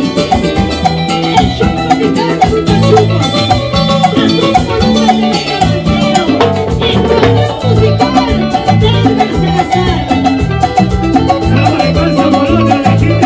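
Latin dance band playing live: an instrumental stretch with a bass line stepping from note to note under busy, fast percussion.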